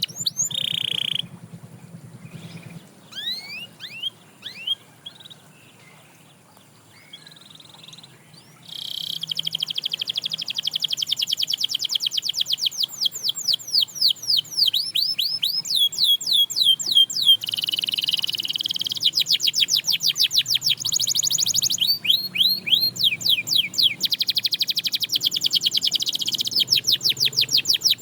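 Canary singing: a short fast trill, a few scattered rising chirps and a lull, then from about nine seconds in a continuous run of rapid trills and repeated sweeping notes, several a second, high in pitch.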